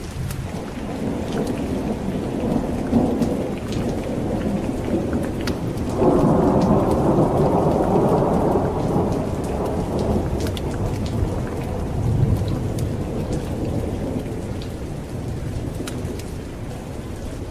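Steady rain with rolling thunder, and scattered raindrop ticks over a constant low rumble. A louder peal of thunder breaks in suddenly about six seconds in and rolls away over the next several seconds.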